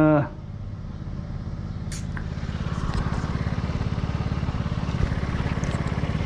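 A vehicle engine idling: a steady, fast low pulse that slowly grows louder, with a couple of faint clicks partway through.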